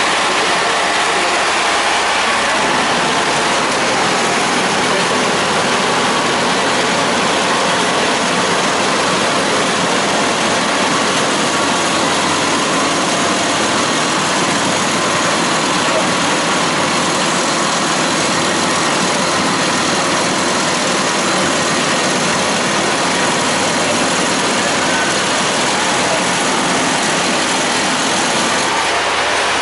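Road-construction machinery running steadily with a constant, loud engine noise.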